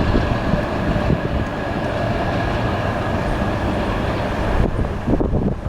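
Short train of two Class 37 diesel locomotives and two barrier coaches rolling past, with steady rail and wheel noise. The noise drops away about four and a half seconds in, leaving wind buffeting the microphone.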